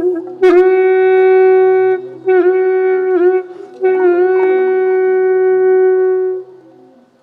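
A wind instrument in a traditional Bahnar T'rưng ensemble plays long held notes, ornamented with quick downward dips in pitch, over a faint low drone and a few lower accompanying notes. The last held note fades out about six and a half seconds in.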